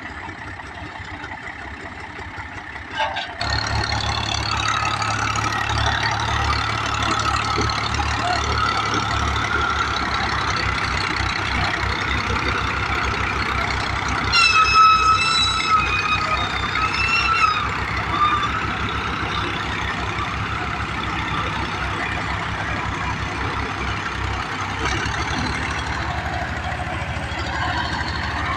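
Massey Ferguson 385 tractor's diesel engine running with a steady pulsing rumble that gets louder about three seconds in. Around the middle, a wavering pitched sound, a horn or a shout, rises over it for a few seconds.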